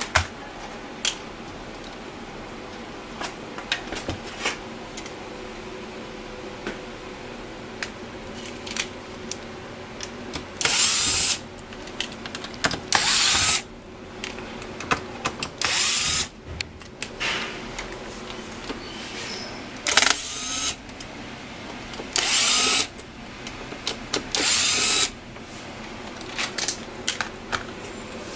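Small electric screwdriver running in about six short bursts, each under a second, with small clicks and knocks of handling in between.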